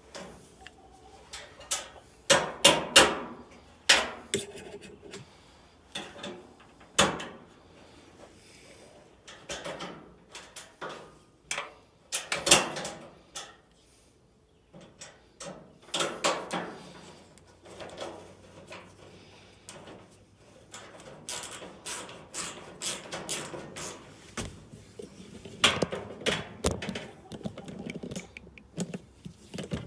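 Irregular knocks, clanks and rattles of a dryer's sheet-metal cabinet panels and hand tools being handled during reassembly, with several sharper knocks a few seconds in and again around the middle.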